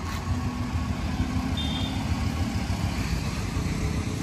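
Royal Enfield Classic 350's single-cylinder engine idling steadily.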